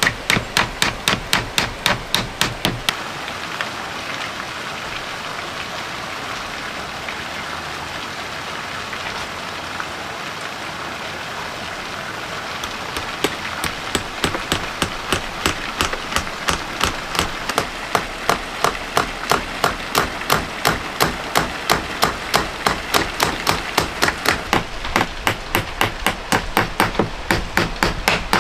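A hammer striking wood in a fast, even rhythm of about three blows a second. The blows stop about three seconds in, leaving a steady hiss of rain, and start again about halfway through, growing louder.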